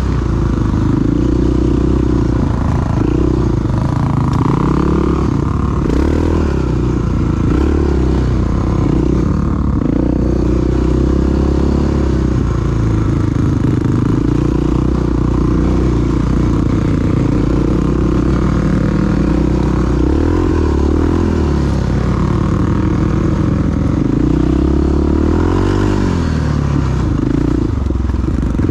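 Big single-cylinder four-stroke dual-sport motorcycle engine running while riding, its pitch rising and falling with the throttle, over steady wind rush.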